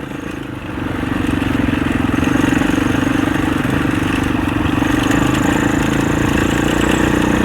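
Husaberg 650 single-cylinder four-stroke enduro engine running while riding off-road, easing off as it begins, then picking up about a second in and holding a steady pull.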